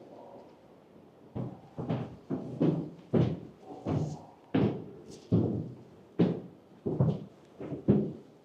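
Footsteps thudding on a hollow floor, a steady run of heavy steps about one or two a second, starting about a second and a half in.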